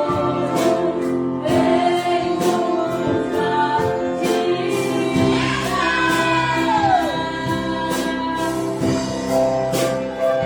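Church orchestra of strings, brass and saxophones playing a Christian worship song with a steady beat. About halfway through, a melody line slides downward.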